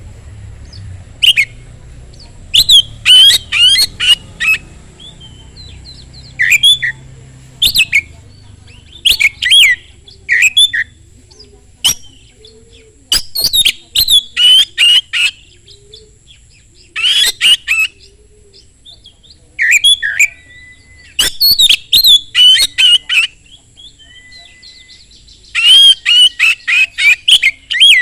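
Oriental magpie-robin (kacer) singing loudly in repeated bouts of rapid, sweeping chattering notes, each about a second or two long, separated by short pauses, with a couple of brief level whistles between them.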